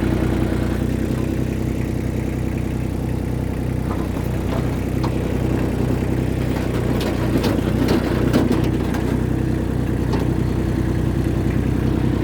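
Tractor engine running at a steady speed. A few light clicks or rattles come between about seven and nine seconds in.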